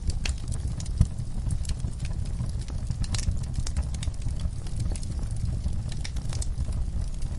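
Wood fire burning in a fireplace: a steady low rumble of flames with irregular sharp crackles and pops, one louder pop about a second in.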